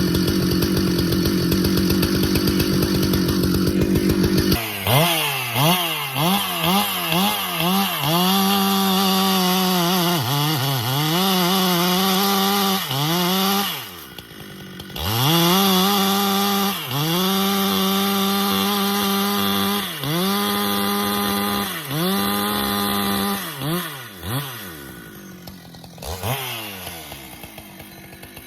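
Husqvarna chainsaw ripping along the grain of a large pecan round. It runs steady at full throttle for the first few seconds, then the engine pitch sags and recovers again and again as the chain bites, with a short let-off about halfway. The saw eases toward idle near the end.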